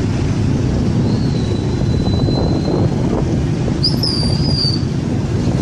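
Steady low rumble of a moving vehicle with wind on the microphone. A thin high whistle holds from about a second in, and a short wavering chirp comes around four seconds in.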